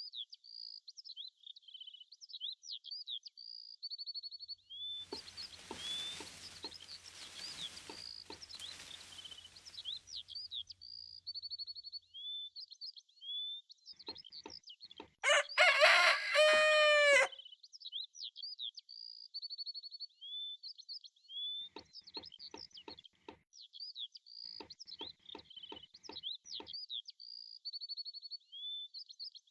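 Farmyard sounds: small birds chirping and twittering throughout, and a rooster crowing once, loudly, about halfway through, the call falling in pitch at its end. A stretch of hiss with a low hum comes before the crow, and a run of short clicks or clucks follows it.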